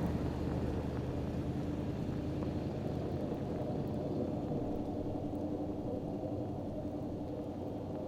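A vehicle driving: a steady low engine and road rumble with a faint hum, slowly getting quieter.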